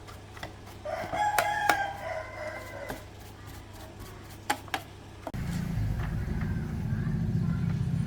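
A rooster crows once, about two seconds long, with a few sharp knocks around it. About two-thirds of the way in, a motor starts up suddenly and keeps running with a steady low throb.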